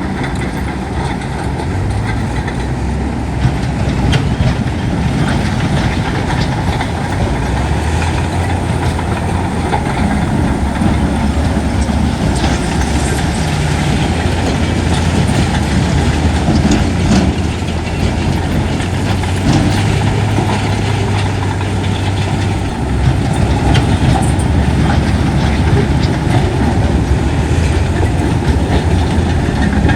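Diesel engines of heavy earthmoving machinery running steadily, with a few sharp knocks scattered through, typical of a bulldozer pushing stone and soil near dump trucks.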